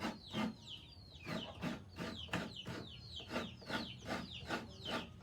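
A flock of chickens clucking in short quick calls, about three a second, with many high falling peeps over them.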